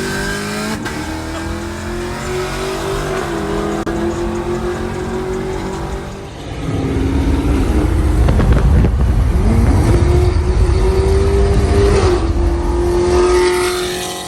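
Car engine pulling hard under acceleration, with a heavy low exhaust rumble coming in about six and a half seconds in. Its pitch climbs, drops back at a gear change near the end, then holds.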